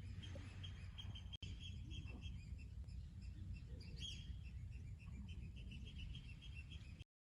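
Small birds chirping in short repeated notes, with an occasional higher call, over a steady low outdoor rumble; the sound cuts off suddenly near the end.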